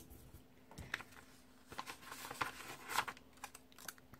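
Paper handling: light crinkles and small clicks as stickers are peeled from a sticker sheet and pressed onto planner pages, in a scatter of short sounds that cluster in the middle.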